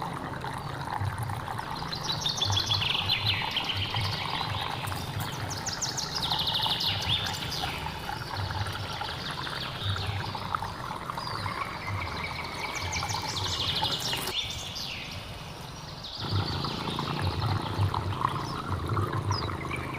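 Forest birds singing repeated fast trills that drop in pitch, several times, over the steady rush of a hill stream, with a low pulsing sound underneath.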